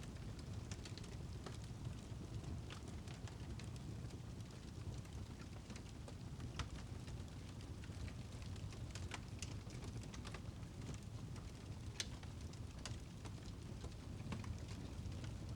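Fire in a fireplace crackling: a steady low rumble with scattered sharp pops throughout, the sharpest about twelve seconds in.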